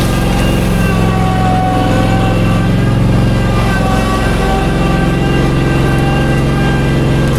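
An engine running steadily, its note shifting slightly about halfway through.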